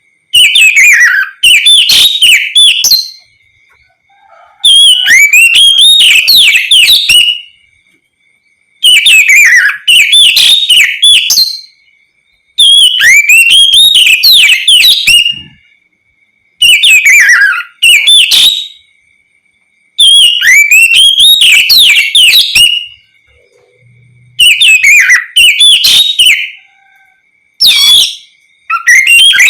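Oriental magpie-robin singing loud, varied whistled phrases full of quick rising and falling notes, in bursts of two to three seconds with short pauses between them.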